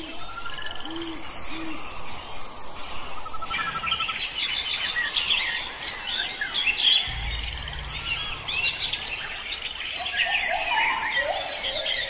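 Forest birds calling: a few low hoots in the first two seconds, then from about four seconds in a dense chorus of many high chirps, whistles and trills, with lower calls joining near the end.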